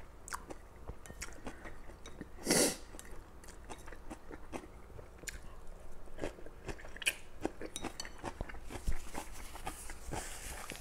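Close-miked eating sounds: a man chewing Mi goreng fried instant noodles and pickled radish, with soft wet mouth clicks and smacks throughout. About two and a half seconds in there is one loud, short, hissy burst.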